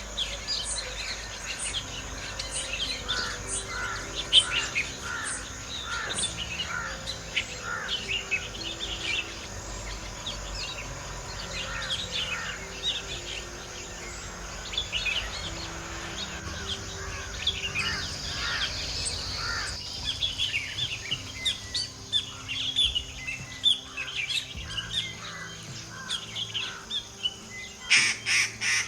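Many small wild birds chirping and calling together, a busy run of short chirps, with a louder cluster of calls near the end.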